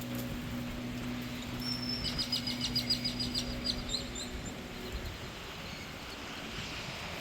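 A small songbird sings one high note and then a rapid trill of about ten notes, over a steady low hum that fades out about five seconds in.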